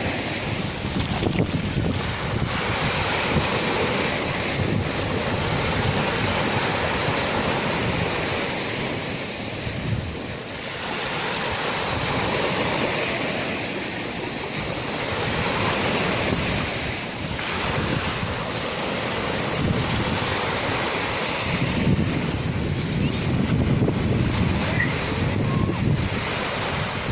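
Sea waves surging and washing in a continuous roar that swells and eases every several seconds, with wind buffeting the microphone.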